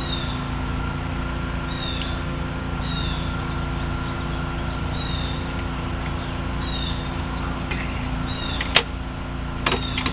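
A small bird chirping repeatedly, short high falling chirps about once a second, over a steady low hum. Two sharp knocks near the end, the second a quick double knock.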